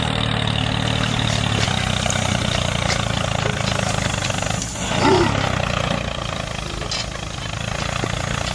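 Mini tractor's engine running steadily, a low even drone that dips about four and a half seconds in. A short falling tone follows, then a weaker rumble.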